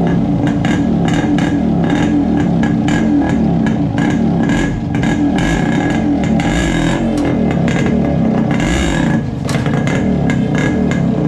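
Yamaha RX 100's two-stroke single-cylinder engine running loudly through its muffler, with the throttle worked so the note dips briefly twice.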